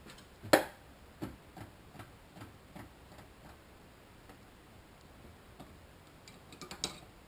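A sharp click about half a second in, then a run of lighter clicks at about two or three a second that thin out, and a short cluster of clicks near the end.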